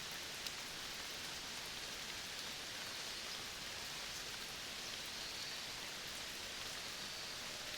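Steady, even hiss of outdoor forest ambience, with one faint tick about half a second in.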